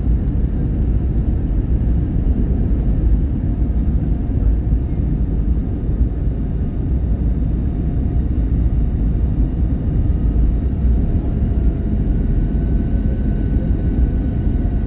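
Steady low rumble of cabin noise inside an Airbus A321-111 airliner in flight, with a faint high engine whine that edges slightly upward late on.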